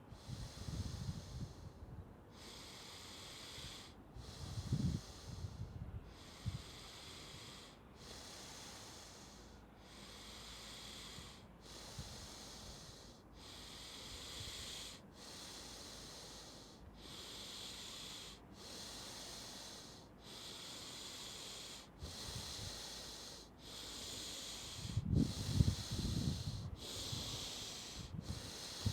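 Wim Hof Method power breathing: deep, rhythmic breaths in and out, about one full breath every second and a half, with an airy hiss on each. Low rumbles come in briefly near the start and more loudly near the end.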